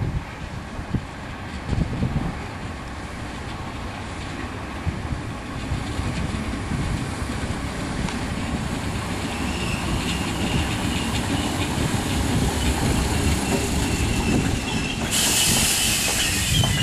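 Merseyrail electric train running on the rails, its rumble and wheel clatter growing steadily louder, with a thin squeal in the second half. A short, sharp hiss comes near the end.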